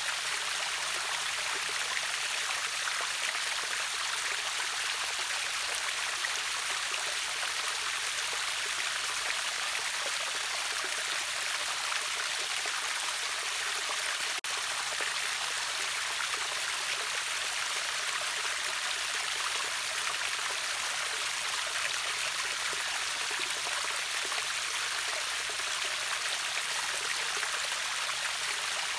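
River water rushing over a waterfall: a steady, even hiss of splashing water with little low rumble. It has a momentary break about halfway through.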